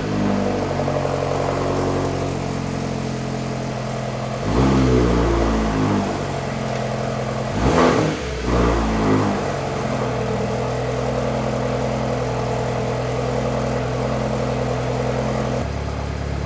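Mini Cooper S's turbocharged 1.6-litre four-cylinder idling just after a cold-side intercooler install, revved once about four seconds in and blipped twice more around eight seconds in, then settling back to a steady idle.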